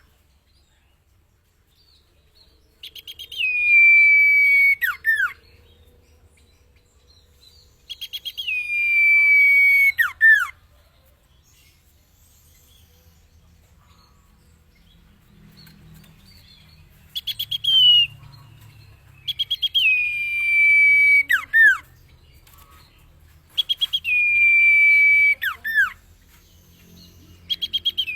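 Common iora (cipeuw) singing, a song recording used to train caged birds. The phrase repeats about six times with pauses: a quick rattle of notes, then a long, steady high whistle that drops sharply at the end.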